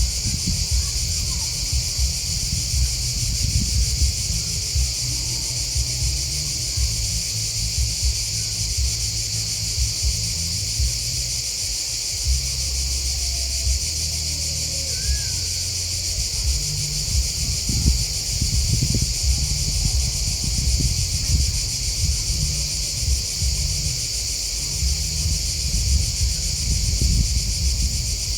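A dense chorus of chirping crickets and grasshoppers, making an unbroken high-pitched drone, over a low uneven rumble.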